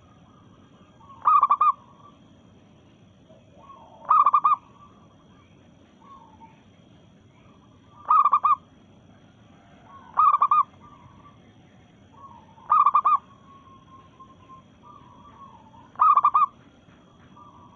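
Female zebra dove (perkutut) calling to males: six short, loud, rapidly pulsed coos, repeated every few seconds, with softer notes in between.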